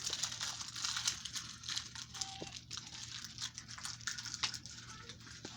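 Plastic toy packaging crinkling and crackling in hands, with many small clicks, as a blind-pack toy is being opened.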